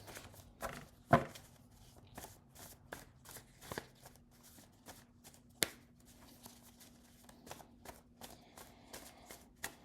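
A deck of cards being shuffled by hand: a soft, irregular run of rustling and tapping, with a sharper click about a second in and another a little past the middle.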